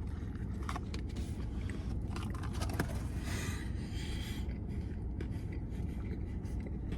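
Chewing and small mouth clicks of someone eating a burger, with a couple of brief rustles a few seconds in, over a steady low hum.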